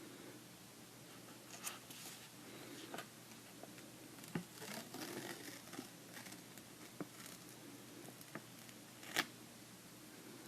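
Instant noodle cup being handled and checked: scattered light scrapes, rustles and taps, with one sharper click about nine seconds in.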